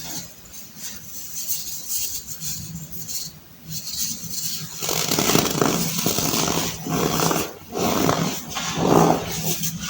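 Compressed baking soda being crushed by hand: faint crumbling at first, then from about halfway a run of louder crunches, roughly one a second.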